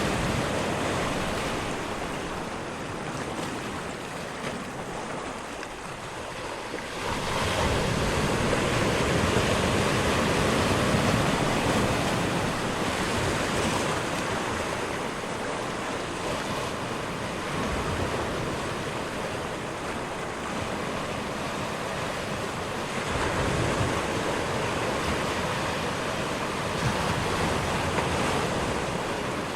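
Ocean surf: a continuous rush of waves, swelling louder about seven seconds in and again near the end.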